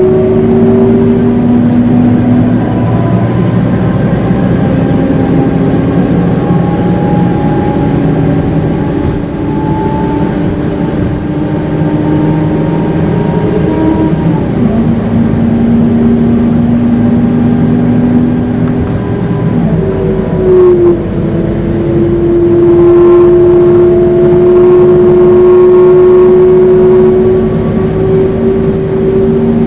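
Scania K230UB bus howling as it drives, its engine and drivetrain whine rising slowly with speed. The pitch drops sharply about halfway through and again a few seconds later, as the gearbox changes up.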